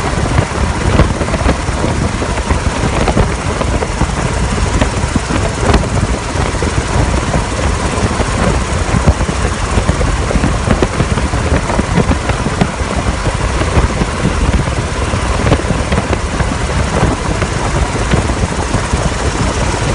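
Helicopter rotor and turbine noise heard from inside the cabin: a loud, steady drone with a fast low flutter and a faint steady whine.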